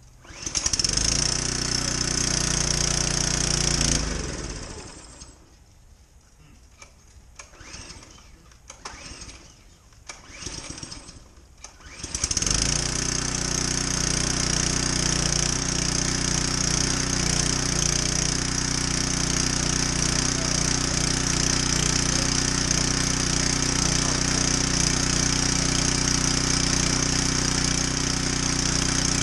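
Generac 3100 psi pressure washer's small gasoline engine hard-starting: it fires and runs for a few seconds, then dies down. After a quieter stretch with a few brief noises it catches at about 12 s and keeps running steadily.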